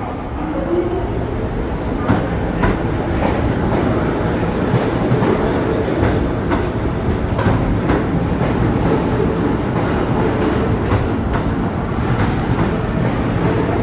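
New York City subway train moving through the station, wheels clicking over rail joints over a steady rumble, with a motor whine that rises in pitch in the first second or two.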